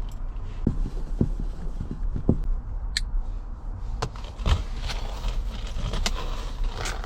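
Scattered light clicks and metallic knocks, about eight at irregular intervals, as an iron chain and hook are handled and fitted to a stove, over a steady low rumble.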